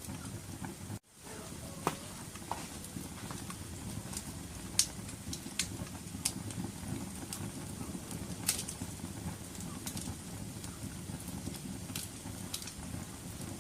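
Wood fire crackling in a fireplace: a steady low rumble of burning with irregular sharp pops and snaps, the loudest about five seconds in. The sound cuts out briefly about a second in.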